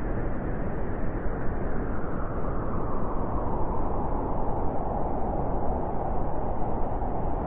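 Winter wind blowing steadily: a dense rushing noise with a deep rumble underneath, gently surging and falling.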